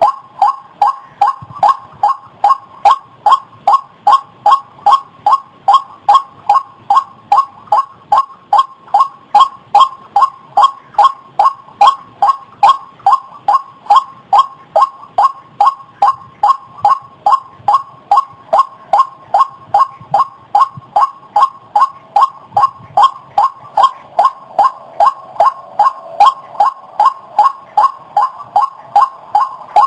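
White-breasted waterhen (ruak-ruak) calling, one short croaking note repeated evenly about three times a second without a break.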